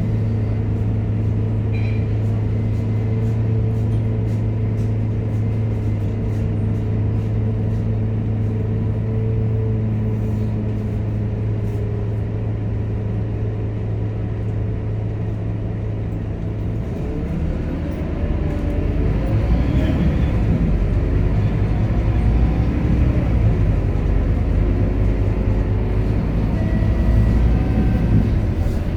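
Scania K230UB bus's diesel engine heard from on board, running at a steady hum, then about two-thirds of the way through getting louder and rising in pitch as the bus accelerates.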